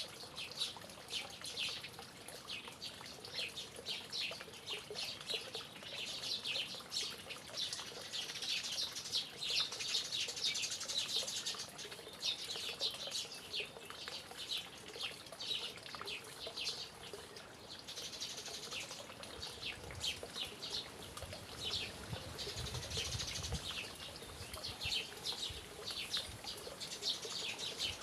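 Birds chirping over a faint steady sound of running water, dense short quick notes, with a brief low rumble about twenty seconds in.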